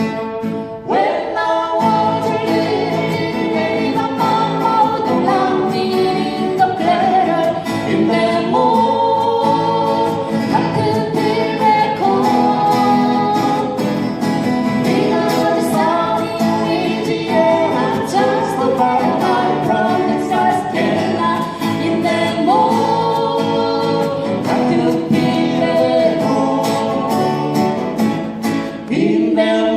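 Live band music: voices singing together over strummed acoustic guitars.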